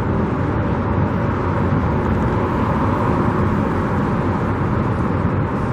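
Steady, even outdoor background rumble with no distinct events.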